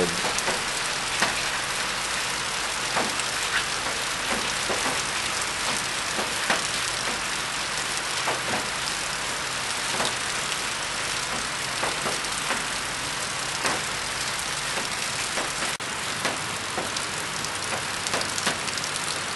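Steady storm rain, an even hiss of falling rain with scattered sharp drop hits ticking close by.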